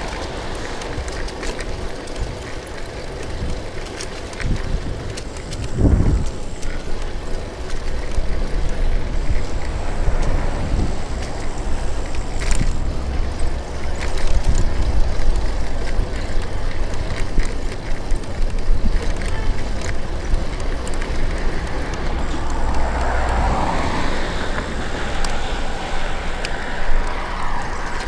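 Street and traffic noise heard from a bicycle riding along city streets, with a steady low rumble and a brief knock about six seconds in.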